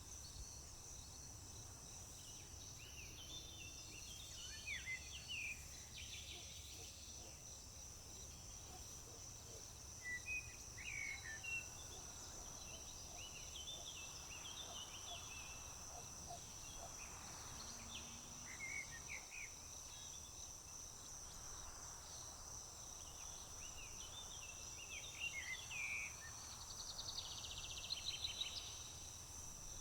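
Crickets or other insects trilling in a steady, high-pitched chorus, with songbirds calling in short chirps and phrases on and off over it, busiest near the end.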